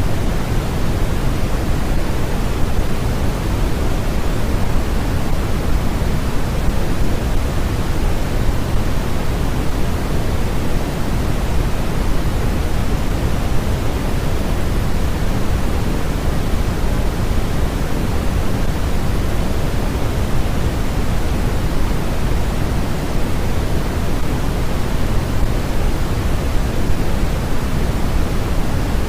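Steady generated noise, a deep even hiss heavier in the low end than in the highs, with no change or break.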